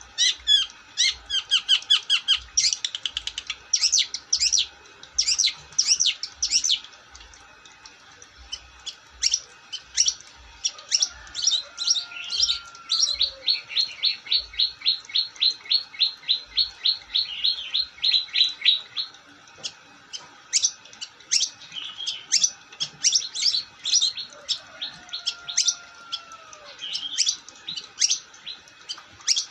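Long-tailed shrike (cendet) singing without pause: fast runs of sharp, high chirps, with a long even trill of about five notes a second in the middle. Faint low knocks sound under the first half of the song.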